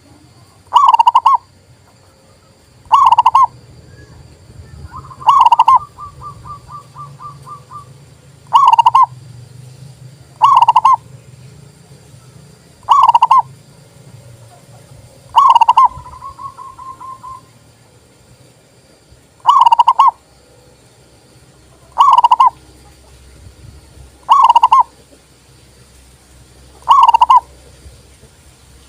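Local perkutut (zebra dove) cooing, loud and close: eleven short coos at a steady pitch, one every two to three seconds, and twice a coo runs on into a quick string of softer notes lasting about two seconds.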